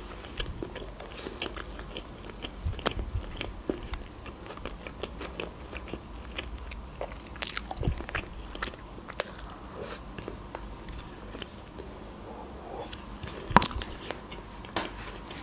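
Close-up mouth sounds of a person biting into and chewing crunchy fried fast food, a run of small crunches and mouth clicks with a few sharper bites. Near the end there is one louder knock or click.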